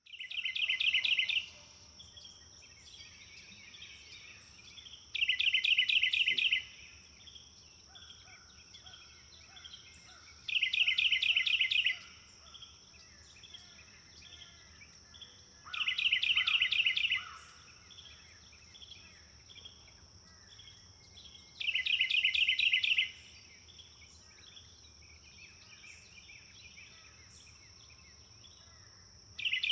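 Forest birdsong: a loud, rapid trill of quickly repeated notes lasting about a second and a half, heard six times a few seconds apart. Quieter chirps from other birds fill the gaps, over a steady high-pitched hum.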